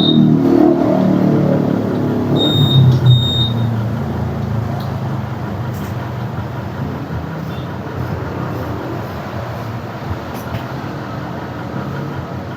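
A motor vehicle engine running, loudest with a rising, pitched rumble over the first few seconds, then settling into a steadier, quieter rumble. Brief high beeps sound twice, a few seconds in.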